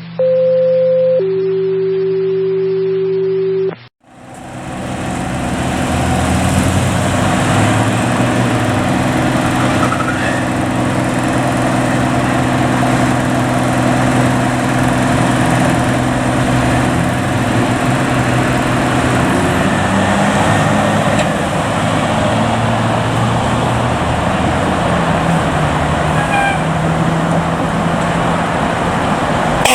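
A short two-note electronic tone, then fire apparatus diesel engines running steadily with a constant hiss of noise over them.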